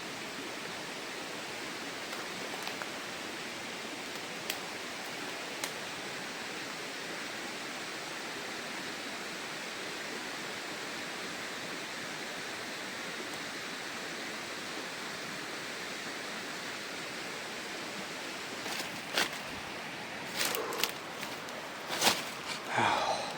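Steady rush of a rocky jungle stream running over stones. A few sharp knocks and rustles come in the last few seconds.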